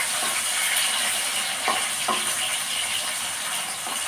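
Chopped tomatoes sizzling in hot mustard oil in a metal kadhai, with a steady hiss, while a wooden spatula stirs them and knocks against the pan a couple of times near the middle.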